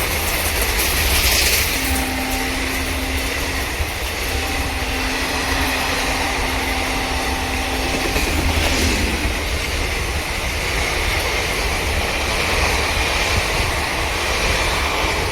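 A train running past on the rails: a steady loud rush of wheel and track noise with a thin high whine over it.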